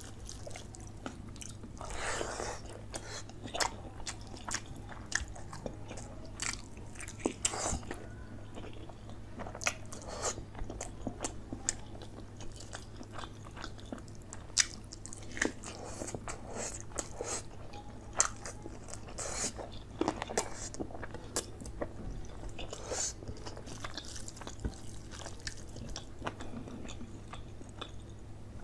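Close-miked chewing and biting of chicken leg curry and rice eaten by hand: irregular wet mouth clicks and smacks, with short louder bursts here and there, over a low steady hum.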